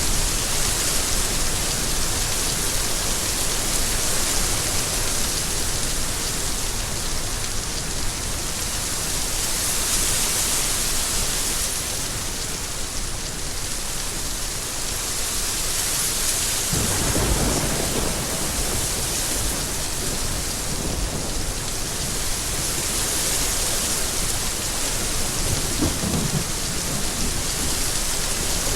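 Steady rain falling in an even hiss, with a low rumble of thunder rolling in about halfway through and a shorter, fainter one near the end.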